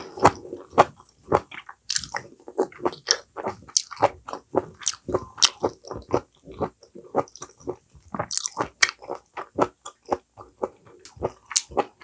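A person chewing a mouthful of food close to the microphone: a steady run of short, moist crunching and squishing chews, a few each second.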